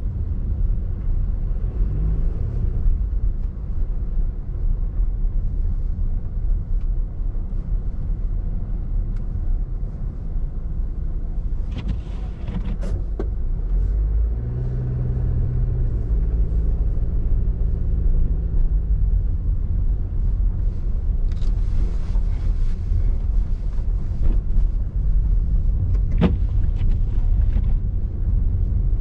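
Car cabin noise while driving on snowy roads: a steady low rumble of tyres and engine. An engine hum comes up about halfway through, and brief hissing bursts come about twelve seconds in and again a little past twenty seconds in.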